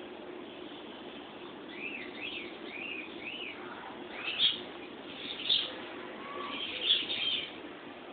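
Peach-faced lovebirds chirping: a run of four short rising-and-falling chirps, then three louder, sharp calls.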